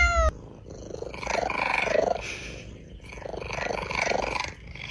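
A cat's meow cut off just after the start, then a cat purring close up in two long swells, rising and falling with its breaths.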